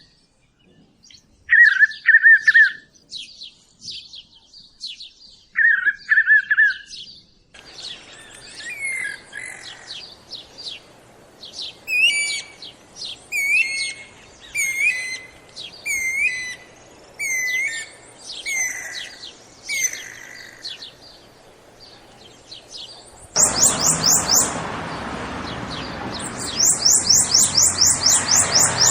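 Songbirds singing in a run of separate recordings. First, short buzzy trills with scattered high notes. Then a bird repeating a sweeping, swooping note about once a second, and finally quick runs of high descending notes over a steady hiss.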